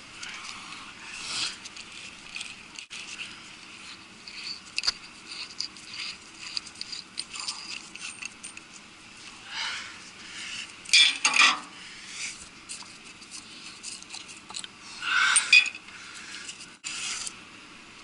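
Metal-on-metal clinks and scrapes of tools and bolts as a cooling-tower gearbox is being opened up, with a few louder scrapes around the middle and near the end.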